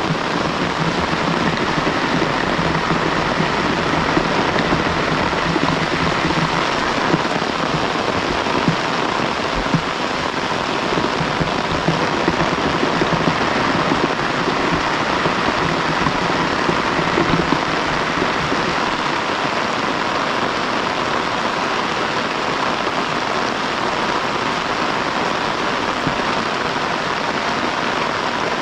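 Heavy rain falling steadily, with a few slightly louder drop hits in the first half.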